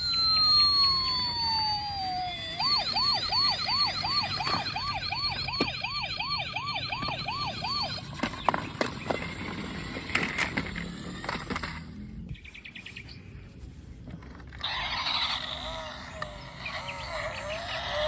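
Toy police car's electronic siren: a falling tone, then a fast warbling wail of about two to three cycles a second that stops about eight seconds in. Clicks and rattles follow, and near the end a busier jingle of electronic tones starts.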